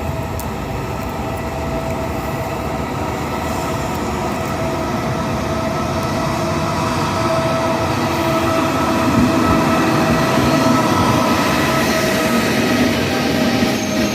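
Regional passenger train pulling into the station, its rumble growing slowly louder as it approaches, with a steady high whine held over it.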